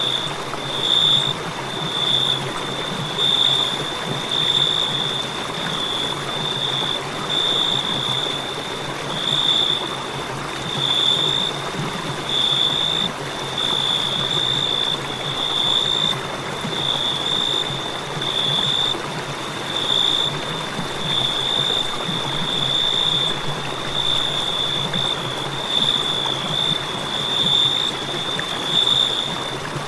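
Crickets chirping in a steady, repeated high-pitched pulse, roughly one chirp a second, over a constant background hiss.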